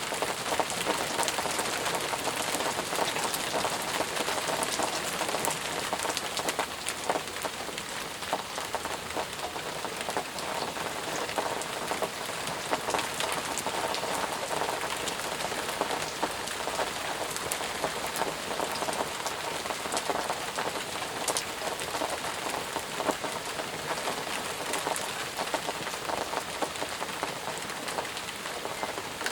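Steady, intense rainfall, with the dense patter of many individual drops striking surfaces.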